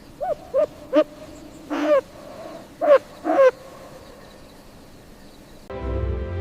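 An animal giving a series of short pitched calls: three quick ones, then three slightly longer ones over the next two seconds or so. Soft music with held notes starts near the end.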